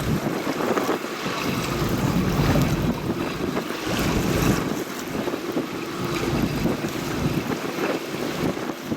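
Wind buffeting the microphone over the wash of waves on open water: a steady rushing noise that swells and eases.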